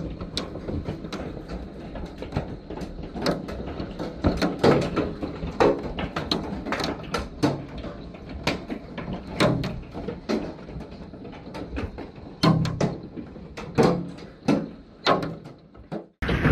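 Hailstones striking a hard surface: irregular loud knocks, several a second, over a steady rush of falling hail and rain.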